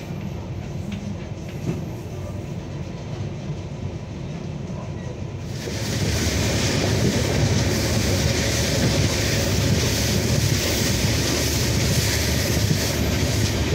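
A passenger train coach running along the track: a steady rumble of wheels and running noise heard from inside the coach. About five and a half seconds in it becomes louder and hissier, a fuller rush of wind and wheel noise.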